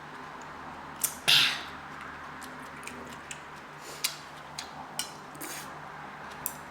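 Eating at a table: utensils clicking and tapping against a dish, a dozen or so separate sharp clicks, with one louder, longer scrape-like noise just after a second in.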